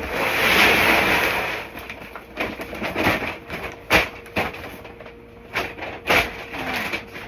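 Grain poured from a feed bag into a bucket: a rushing hiss for about two seconds, followed by scattered knocks and rustles as the bag and bucket are handled.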